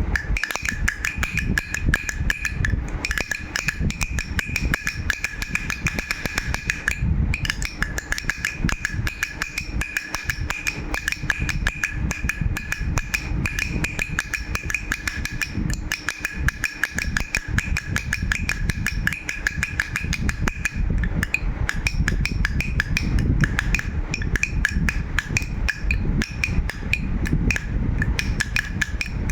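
A toy rattle shaken rapidly and without pause, a dense stream of small clicks. A steady ringing tone runs under it and fades out near the end.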